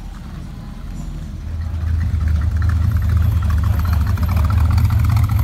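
Hot rod pickup's exposed V8 engine running with a low, steady exhaust rumble as it drives slowly past, growing louder about two seconds in.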